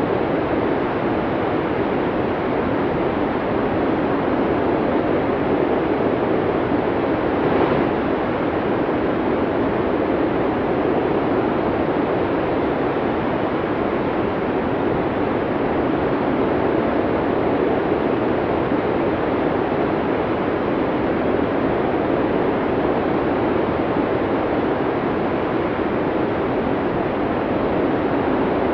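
Snowstorm wind blowing steadily: a dense, even rush of noise that holds at one level, with a faint brief click about eight seconds in.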